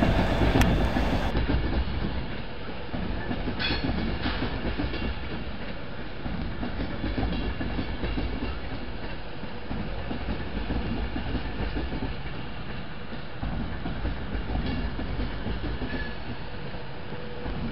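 Class 390 Pendolino electric train running past, a steady rumble of its wheels on the rails with occasional clicks over rail joints. It opens with about a second of a louder low rumble from a Class 57 diesel locomotive, cut off abruptly.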